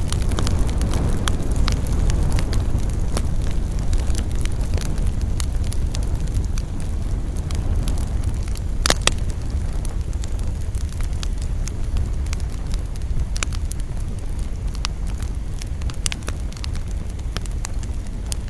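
Wood fire burning with a steady low rumble and scattered sharp crackles and pops, one loud crack about halfway through.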